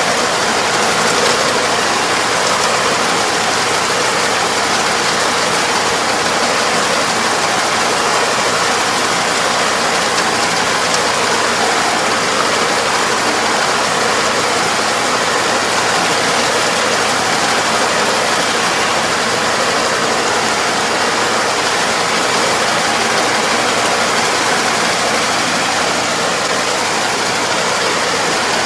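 Farm machine engine running steadily under load, with a dense, even mechanical noise.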